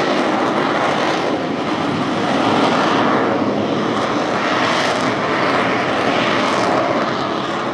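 Aerobatic airplane's engine running loud and continuous as it manoeuvres overhead, its pitch sweeping up and down.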